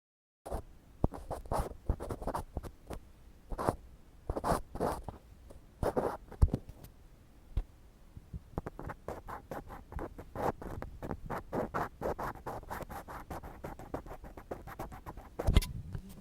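Ear pick scraping close on a microphone in short strokes, irregular at first, then a quicker run of rapid scrapes through the second half, with one loud scrape near the end.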